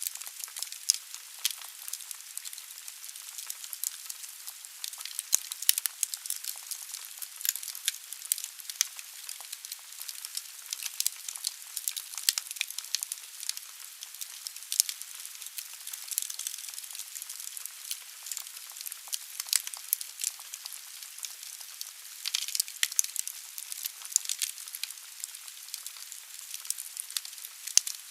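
Wood fire burning in a fireplace: a steady hiss with frequent sharp crackles and pops from the burning logs.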